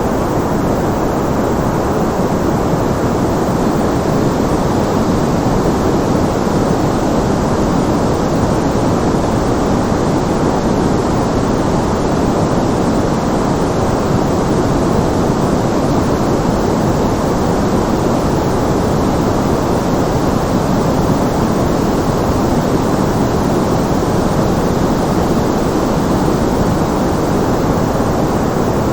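Steady white-noise background track: an even, deep rushing hiss with little treble that holds constant throughout.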